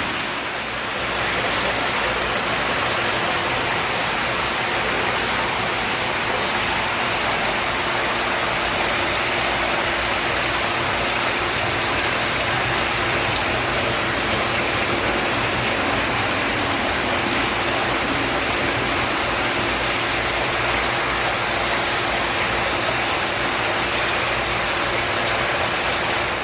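Steady rushing water, like a cascade, with a faint steady hum underneath.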